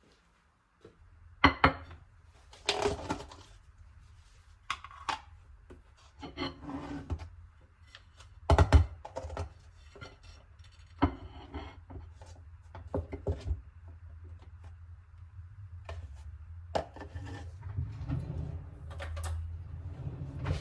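Household objects being handled and set down on hard surfaces: irregular knocks and clatters, over a low steady rumble.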